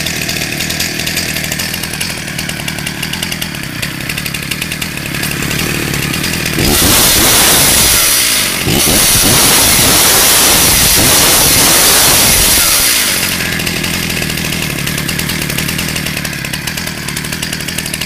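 Freshly rebuilt Stihl MS 341 two-stroke chainsaw engine running on its first start after a new piston and rings. It idles, is revved hard for about six seconds with a brief drop partway through, then falls back to idle.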